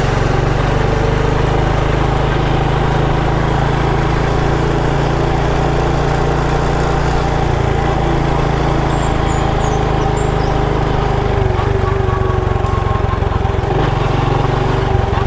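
Small motorbike engine running steadily under way, its note shifting a little about eleven seconds in.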